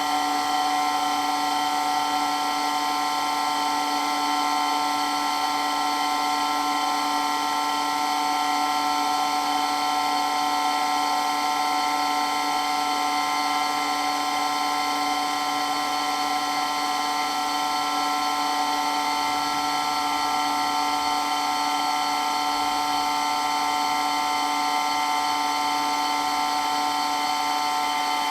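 Water pump running continuously with a steady whine: several unchanging tones over a hiss, holding the same pitch and level throughout.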